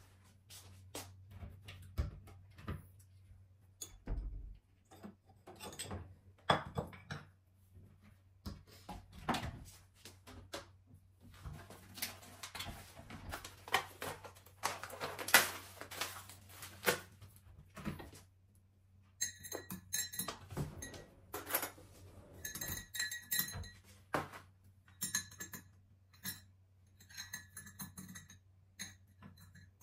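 Dishes and cutlery being handled in a kitchen: irregular clattering and knocking, with several ringing clinks of crockery or glass in the second half.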